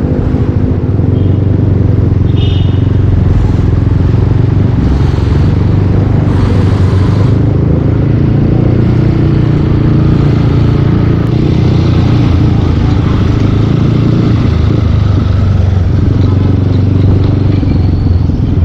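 Yamaha Aerox 155 V2 scooter's single-cylinder engine running through a full Yoshimura aftermarket exhaust while riding, its note holding steady with small shifts in pitch.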